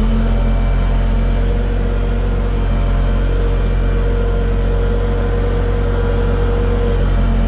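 Big diesel engine running steadily at a constant speed, its pitch rising a little right at the start and then holding.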